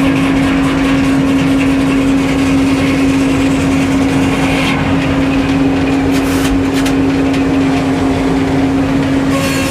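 Sawmill's engine running steadily at one constant pitch, with a hiss above it that drops away about halfway through and comes back near the end.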